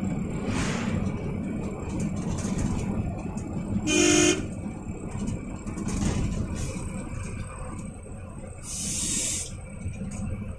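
Bus engine and road rumble heard from inside the bus cab, with a single short horn honk about four seconds in and a brief hiss a little before the end.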